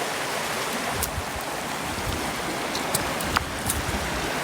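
River water flowing steadily, with a few faint sharp ticks about a second in and near the end.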